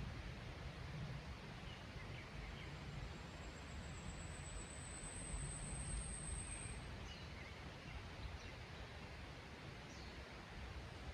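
Mountain forest ambience: a steady low rushing haze, with faint scattered bird chirps. A thin, high, steady insect whine sounds for a few seconds around the middle.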